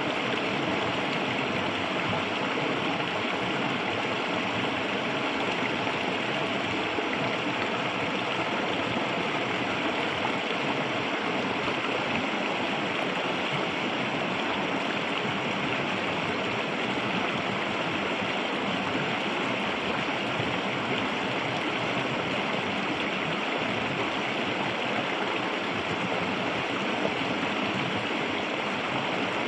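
Clear, shallow river flowing steadily over rocks, a continuous rushing and gurgling of water.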